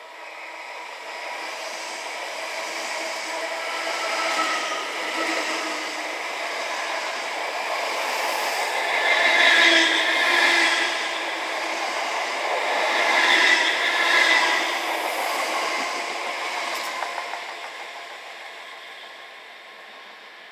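A Class 321 electric multiple unit passing through a station without stopping: wheel-on-rail and traction noise builds as it approaches and is loudest, with two peaks, as the carriages go by. It then fades as the train runs away.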